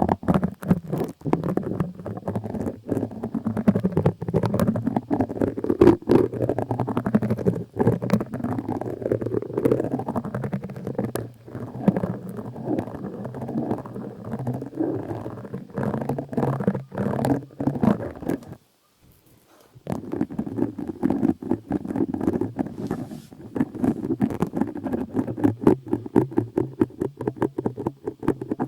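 Close-miked scratching and rubbing on or near the microphone, a dense crackling rustle full of small clicks, stopping briefly about two-thirds of the way through before going on.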